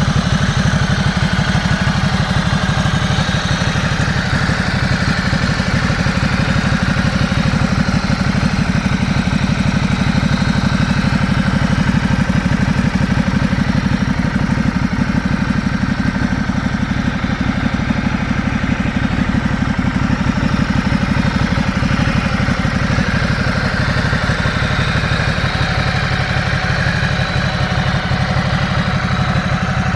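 Motorcycle engine idling steadily, its regular firing pulses unchanging throughout.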